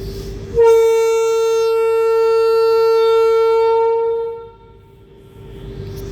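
WAG-12 electric locomotive horn sounding one long, steady blast of about three and a half seconds, over the locomotive's steady hum, which returns after the blast.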